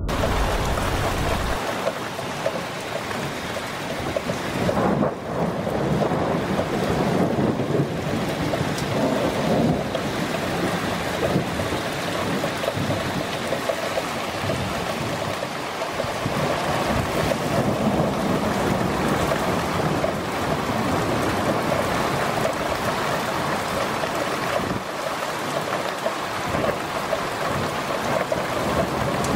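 Heavy rain pouring steadily during a thunderstorm.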